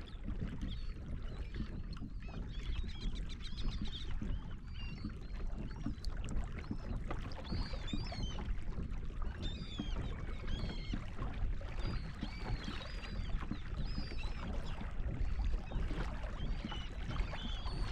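Kayak paddling: a steady run of paddle strokes and water sloshing around the hull, with many short high calls of feeding seabirds scattered throughout.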